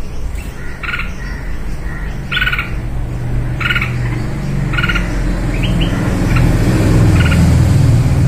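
A small bird giving short, repeated calls, about one a second, over a steady low rumble that grows louder in the second half.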